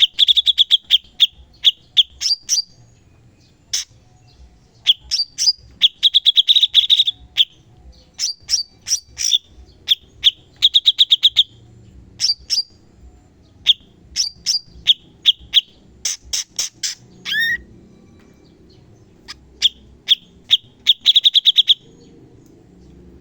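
Cucak cungkok song: bursts of sharp, rapid repeated notes and fast rattling trills, separated by short pauses.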